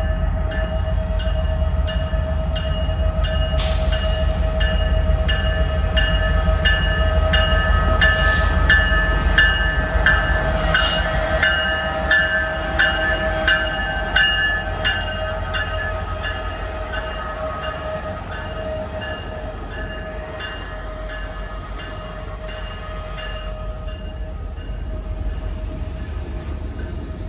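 Train passing, with a steady low rumble and a steady tone over it. A short ringing note repeats about twice a second. The sound fades after the middle, and a hiss rises near the end.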